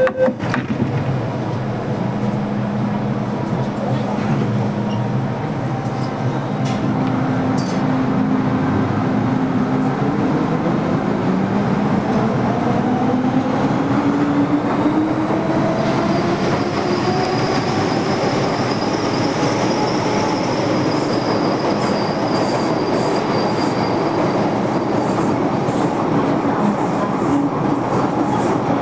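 An MTR M-Train electric multiple unit running in the tunnel, heard from inside the train: a steady rumble of wheels on the track. From about a third of the way in, the traction motors' hum rises in pitch as the train picks up speed, and a high whine joins about halfway through.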